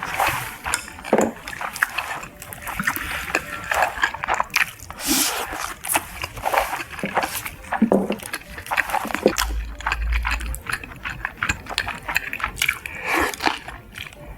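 Close-miked chewing and wet mouth smacking while eating beef and rice, a steady run of irregular short clicks and smacks.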